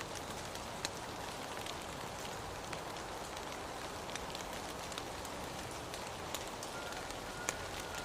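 Steady rain falling: an even hiss scattered with sharp ticks of individual drops. A faint thin high tone comes in near the end.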